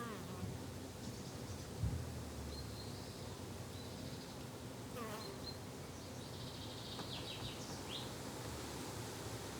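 Summer garden ambience of insects, bees and flies, buzzing steadily, with a few short high chirps scattered through it. A brief low thump about two seconds in is the loudest moment.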